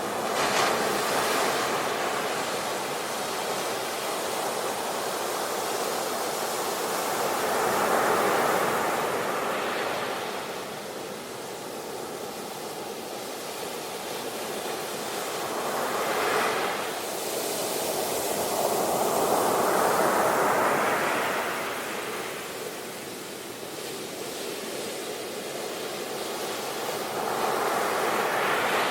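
Ocean waves breaking and washing on a shore, a steady surf that swells and ebbs every several seconds, with about four larger surges.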